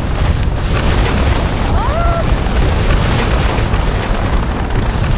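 Strong storm wind blowing and buffeting the microphone in a steady, heavy rumble with a rushing hiss over it. A brief rising whistle comes about two seconds in.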